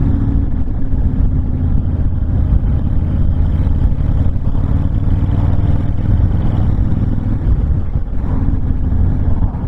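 Honda VTX1300 V-twin cruiser engine running at a steady cruising speed, with a steady low rumble and wind rushing past the open, windshield-less riding position.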